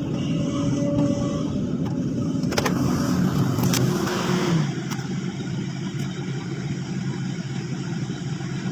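Excavator engine running steadily, with a few sharp clicks about two and a half to four seconds in. Its held tone drops away at about four and a half seconds, leaving a lower, steadier hum.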